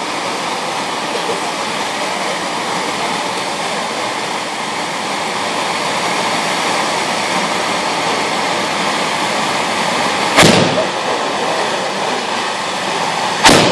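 Hand-held bamboo tube fireworks (tezutsu hanabi) spraying sparks with a loud, steady rushing hiss. Two sharp bangs come about ten and a half seconds in and near the end, typical of the tubes' bottoms blowing out (the "hane") as they burn down.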